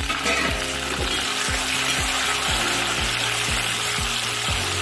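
Onions, green chillies and freshly added tomato pieces sizzling in hot oil in a kadhai, with a steel spatula stirring and scraping through them.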